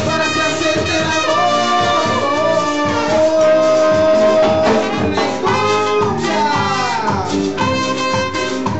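Band playing an instrumental break, with brass carrying the melody over the rhythm section: a long held note in the middle, then a few falling runs near the end.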